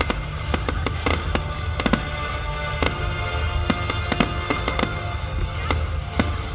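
Fireworks display: frequent sharp bangs and pops from bursting shells, over music playing throughout and a deep steady rumble.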